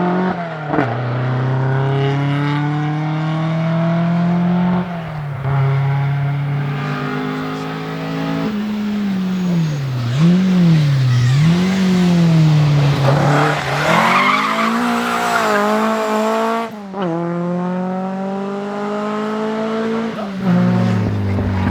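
Rally car engines accelerating hard, the pitch climbing and dropping back at each gear change, in a series of short clips. In the middle the revs swing up and down repeatedly, followed by a few seconds of tyre squeal and skidding.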